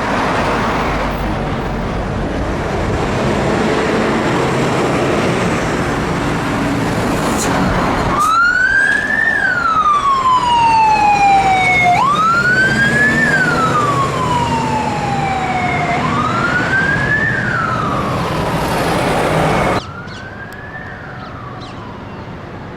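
Scania P360 fire engine turning out, its diesel engine running loudly. About eight seconds in its siren starts: a wail that rises quickly and falls slowly, repeating about every four seconds. Near the end the sound drops suddenly in level and the siren carries on fainter.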